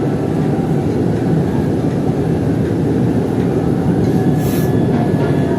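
MRT-3 light-rail train heard from inside the car as it runs along the track: a steady rumble of wheels and running gear. A brief hiss comes about four and a half seconds in, and a faint wheel whine near the end.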